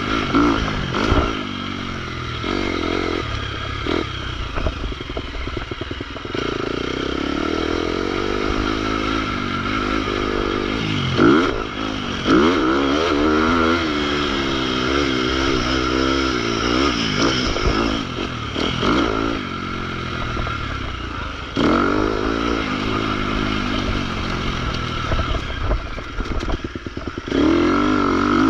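Motocross bike engine revving hard and easing off again and again as it is ridden round the track, its pitch rising and falling with each burst of throttle and gear change. It gets louder near the end.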